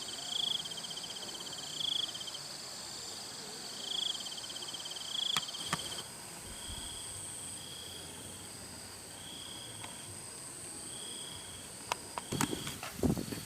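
Several insects calling, crickets among them: a high pulsed trill repeats every one to two seconds over steady high-pitched buzzing. A couple of sharp clicks come about halfway, and a few knocks and rustles near the end.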